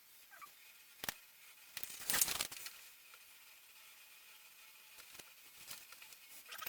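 Small workbench handling noises from building a model airplane: a sharp click about a second in, then a short, louder rustling scrape, with light taps and ticks after it.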